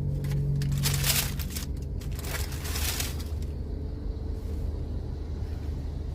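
Two bursts of rustling, as of paper or packaging being handled, one about a second in and another a little after two seconds, over a steady low hum.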